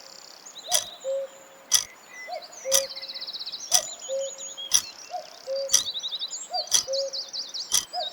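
Ticking countdown timer, about one tick a second, over a background of songbirds chirping and trilling.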